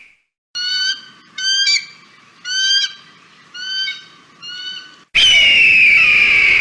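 Eagle calls: five short, high, stuttering chirps spread over about four and a half seconds, then a loud, harsh scream falling in pitch that starts about five seconds in.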